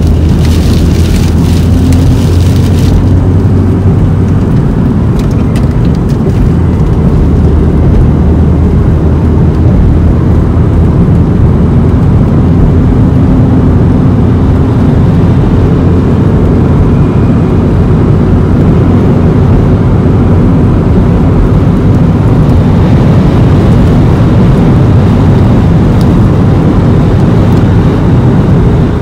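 Car driving at speed, heard from inside the cabin: loud, steady road and wind noise with a low engine hum. Light crackling in the first few seconds, as of rain on the glass.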